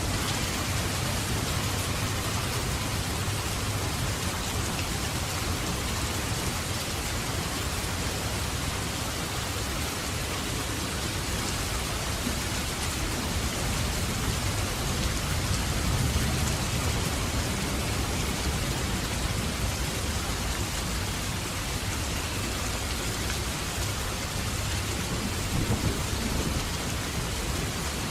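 Steady rain pouring down, with a low rumble of thunder rolling underneath that swells briefly around the middle and again near the end.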